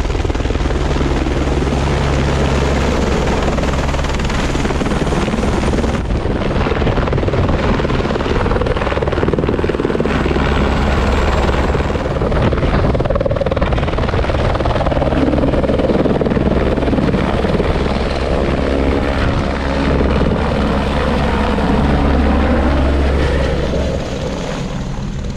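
Helicopter running close by, a loud steady rotor and engine drone that eases somewhat near the end.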